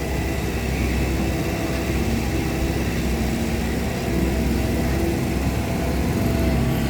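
Hydraulic excavator's diesel engine running steadily under load while it digs.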